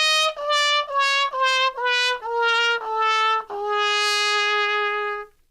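A short brass-like melody, trumpet in tone: a run of short notes stepping down in pitch, ending on one long held low note that cuts off sharply.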